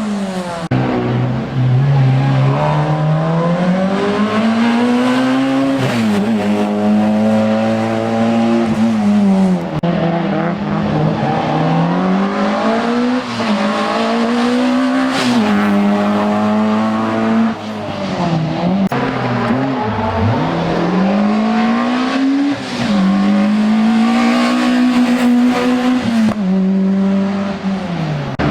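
Race car's engine accelerating and then dropping back over and over, the pitch climbing and falling every few seconds as it drives through a slalom course.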